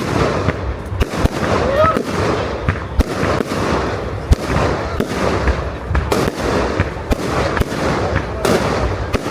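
Fireworks display: rapid, irregular bangs and cracks of bursting aerial fireworks, several each second, over the voices of a crowd.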